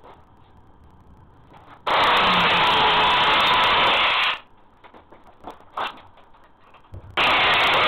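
Power tool running in two bursts: one of about two and a half seconds, then a second starting near the end. A few light knocks fall between them.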